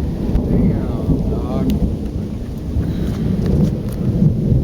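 Thunder rumbling on and on through steady rain during a close thunderstorm.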